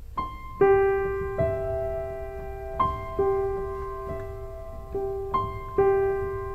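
Solo piano playing a slow, gentle repeating figure of struck notes that ring and fade: the instrumental introduction of the song, before the vocal comes in.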